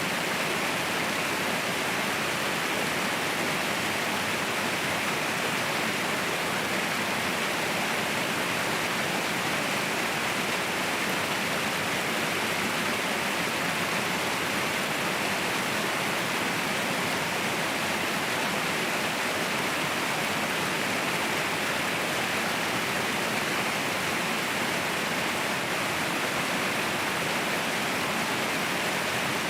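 Mountain waterfall, water falling and rushing in a steady, unbroken roar.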